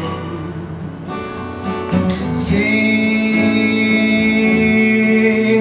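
Live song with strummed acoustic guitar; about halfway through, one long note is held steady over the guitar.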